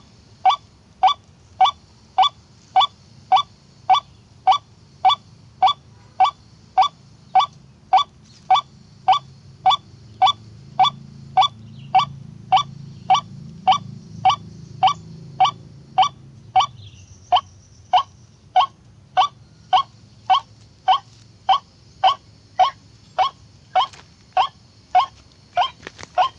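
White-breasted waterhen's harsh 'kwak' call repeated evenly, about two calls a second without a break, as a lure call for a trap.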